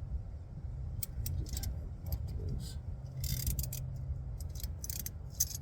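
Ratchet and oil filter wrench clicking and rattling in irregular bursts, starting about a second in, as the ratchet is worked on the oil filter, over a steady low rumble.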